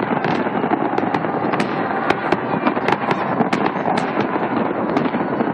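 Fireworks display going off: many sharp pops and cracks, several a second, over a continuous dense crackling hiss.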